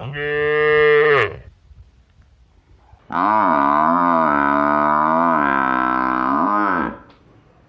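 A bovine mooing twice: a short low call that falls in pitch as it ends, then, about two seconds later, a long call of nearly four seconds whose pitch wavers and drops at the end.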